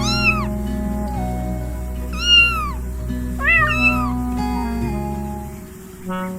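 A cat meowing three times, each meow rising then falling in pitch, over gentle background music.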